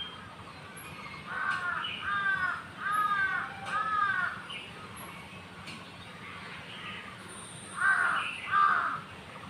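A crow cawing: four harsh caws in a row, then a pause, then two more near the end.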